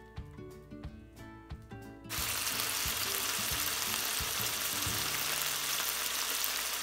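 Soft background music, then about two seconds in a loud, steady sizzle starts suddenly: snap peas and chicken frying in a pan.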